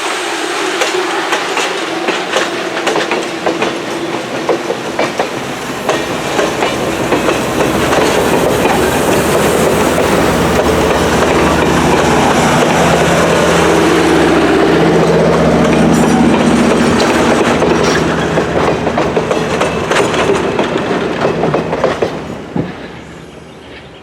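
A train passing close by, its wheels clacking over the rail joints. The sound grows louder, peaks past the middle, then falls away suddenly near the end as the train goes by.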